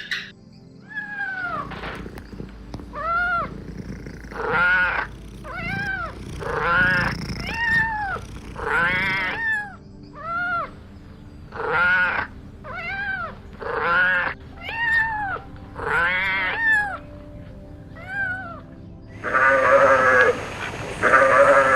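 Kitten meowing over and over, high mews roughly one a second, each rising and then falling in pitch. Near the end louder, harsher cries start.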